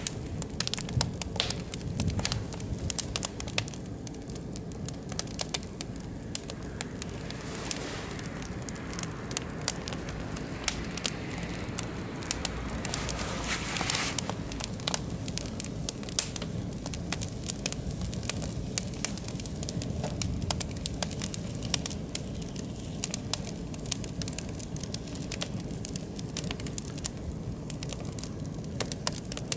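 Oak and beech logs burning in an open wood fire, with steady, irregular crackling and popping over a low rush of flame. A short swell of hiss comes about halfway through.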